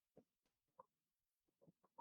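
Near silence, with a few faint, short taps at uneven intervals.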